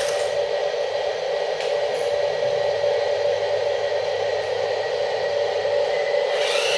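Small electric motor of a remote-control toy construction machine running steadily with a constant whine.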